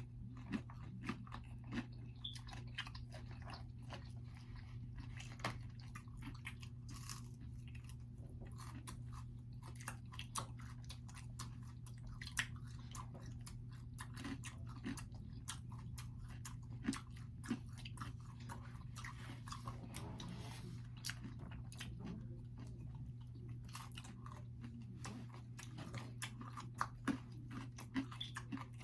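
Close-up chewing and biting of pizza: many short, sharp wet mouth clicks over a steady low hum.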